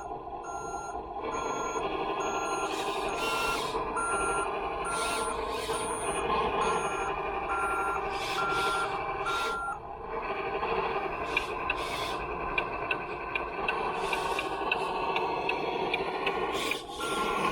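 RC scale truck's electronic sound unit playing a truck engine running with an intermittent reversing beeper. The beeping repeats evenly, stops about ten seconds in and starts again near the end, while a fine fast ticking comes in during the second half.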